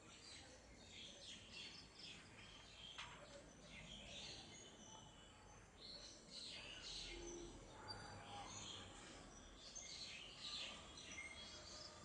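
Faint, scattered high-pitched bird chirps, many short calls coming irregularly throughout.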